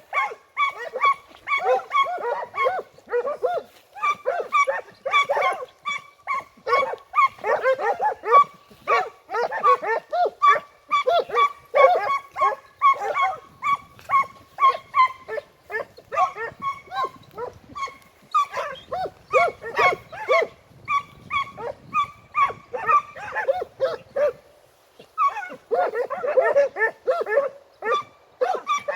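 A pack of segugi, Italian scent hounds, giving tongue as they work a hare's scent trail: several dogs baying at once in a continuous chorus of short calls, a few a second, with a brief lull near the end.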